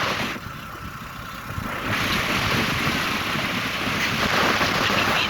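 A car's engine and road noise as it drives, steady, with a softer stretch about half a second in that lasts until about two seconds in.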